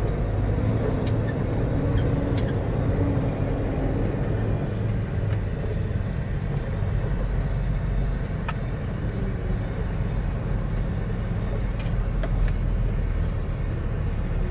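Semi-truck diesel engine running with a steady low rumble, with a few faint clicks over it.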